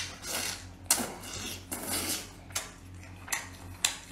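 Close-miked chewing of a piece of braised baby squid: wet, smacking mouth sounds and crunches, irregular, about two a second.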